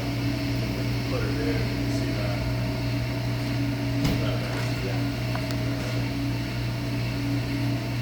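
Yamaha Crosswave boat engine running with a steady, even hum, with a small click about four seconds in.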